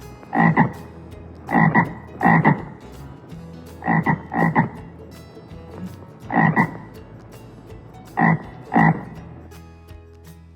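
A frog croaking: short, loud croaks, often two close together, repeating every second or two.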